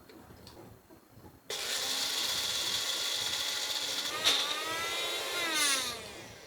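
Electric kitchen blender starting abruptly about one and a half seconds in and running steadily at full speed. About four seconds in it is switched off, and the motor winds down with a falling whine.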